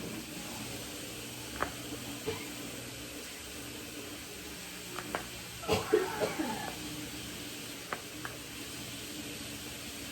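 Room tone with a steady low hum, a few light clicks, and a brief cough-like vocal sound about six seconds in.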